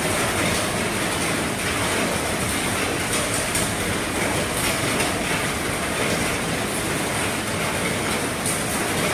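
Heavy rain falling on an RV's roof: a steady, dense patter, with a few sharper drop hits standing out.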